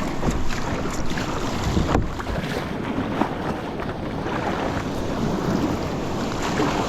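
Wind buffeting the microphone over surf and water splashing around a paddle ski being paddled out through breaking waves, with a few sharper splashes in the first couple of seconds.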